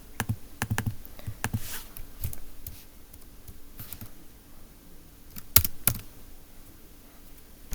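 Clicking and tapping at a computer while drawing: a quick run of sharp clicks in the first two seconds, then a few sparser ones, with two louder clicks close together about five and a half seconds in.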